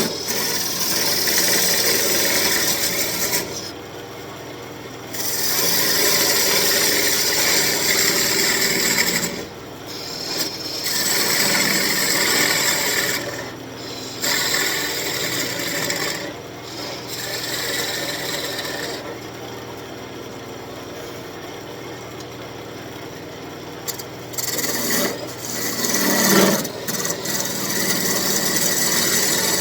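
A turning tool cutting an elm blank as it spins on a wood lathe, in passes of a few seconds each, with the lathe's steady motor hum between passes.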